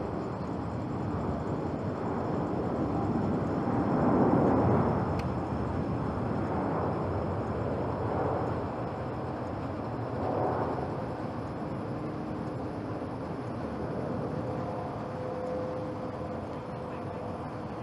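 Airbus A350-900's Rolls-Royce Trent XWB turbofan engines in a take-off run, a broad steady rush of jet noise that swells about four seconds in and again briefly near eight and ten seconds. In the last few seconds a steady tone sounds within the noise.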